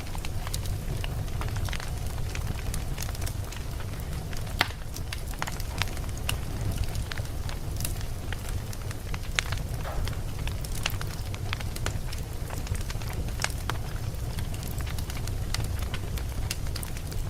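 Campfire burning, with a steady low rumble and frequent sharp crackles and pops from the burning wood. One pop about four and a half seconds in is louder than the rest.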